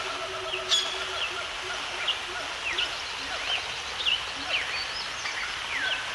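Wild birds chirping: many short calls, most sliding down in pitch, following one another every half second or so over a steady background hiss. A single sharp tick sounds near the start.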